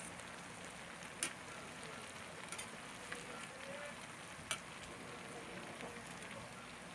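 Taro leaves and fish sizzling softly in a metal pan as they are stirred with a metal spatula, with four sharp clinks of the spatula striking the pan.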